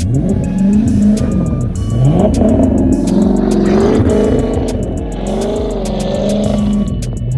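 Car engine revving up and down several times in quick succession during a drift on snow, over background music with a beat.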